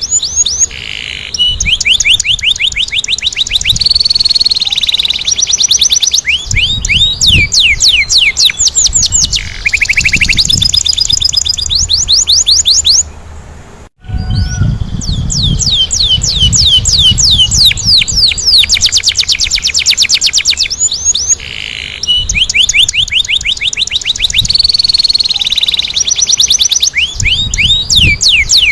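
Domestic canary singing a rolling song: long fast trills of rapidly repeated chirping notes, with a brief pause about halfway through.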